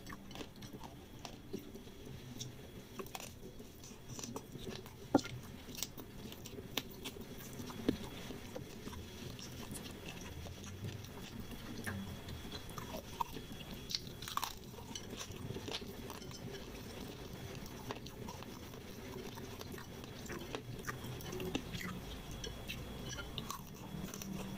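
A person chewing mouthfuls of fried noodles, with many small wet mouth clicks and smacks scattered throughout.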